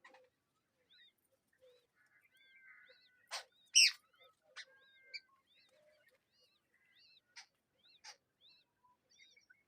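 Birds calling at a nest: a run of short, arching chirps every half second or so, with one much louder, sharp call a little under four seconds in.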